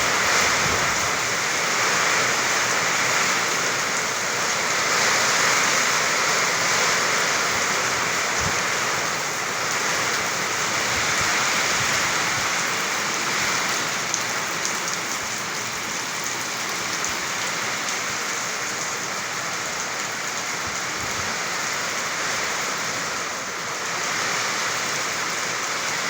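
Steady rain falling, a dense even hiss without pauses.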